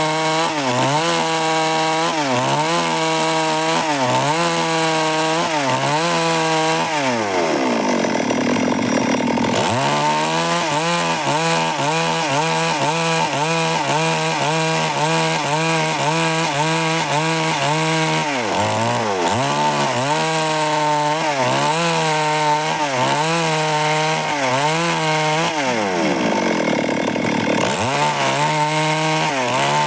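Stihl MS 382 two-stroke chainsaw running under load, cutting wood. Its pitch wavers about once a second as the cut varies, and twice drops steeply and climbs back, about eight seconds in and near the end.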